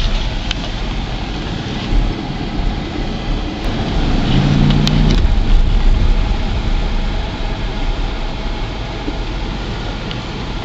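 Steady road and engine noise of a moving car, with a heavy low rumble throughout. A brief low hum sounds for about half a second around the middle.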